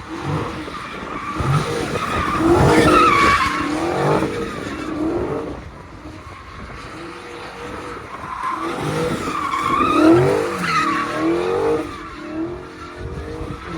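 Car tyres squealing and skidding under hard acceleration as a car spins its wheels. The squeal wavers up and down in pitch and is loudest about three seconds in and again around ten seconds in.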